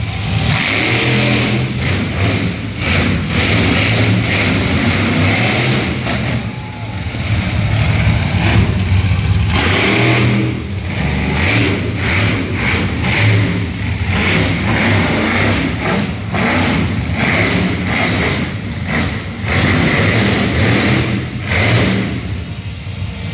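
Monster truck engine revving hard again and again, surging and dropping in pitch and loudness.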